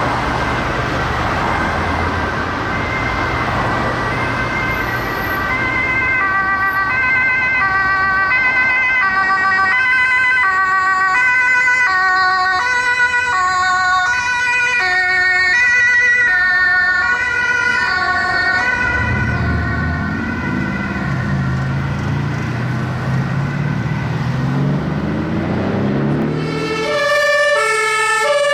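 Two-tone sirens of German emergency vehicles sounding over road traffic, several alternating two-note horns overlapping and growing louder. A heavy vehicle engine revs up as it accelerates past, and near the end a much closer two-tone horn comes in loudly.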